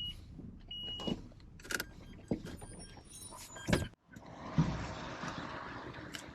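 Car sounds as a taxi is met: a short high electronic beep about a second in, several clicks and knocks, then after a brief break a steady rushing noise.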